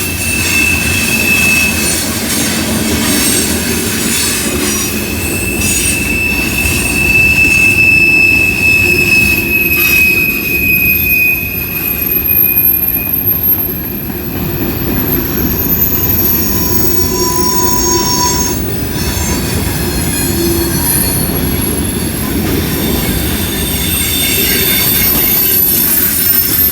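Train rolling past, a steady rumble of wheels on rail with shrill wheel squeal tones that come and go.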